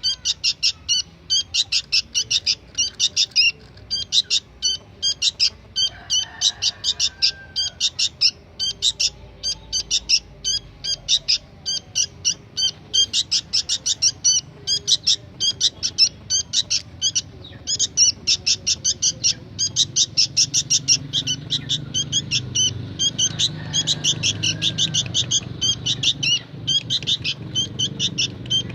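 Young sooty-headed bulbul (kutilang) chick calling nonstop: short high chirps repeated several times a second in runs with brief pauses. A faint low hum comes up in the second half.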